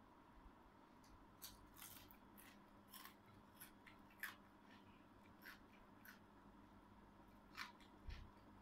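Faint, scattered crackles and mouth clicks of someone chewing fried dried fish and rice, about a dozen small sharp sounds spread over several seconds, with a soft low bump near the end.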